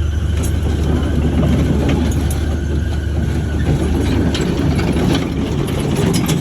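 Shantui bulldozer's diesel engine running steadily with a deep low hum, with scattered short knocks over it.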